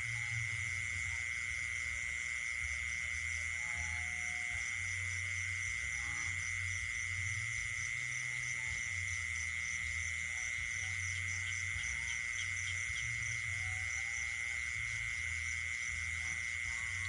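Night chorus of frogs and insects: a steady high-pitched insect trill under a faster, higher pulsing buzz, with low frog croaks that start and stop every second or two.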